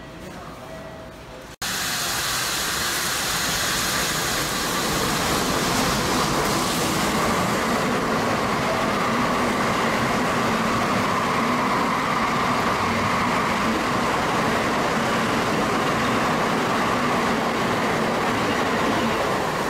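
N700A Tokaido Shinkansen passing through the station at reduced speed because of snow: a steady rush of rolling wheels and air. It starts abruptly about a second and a half in, after a short stretch of quieter station sound.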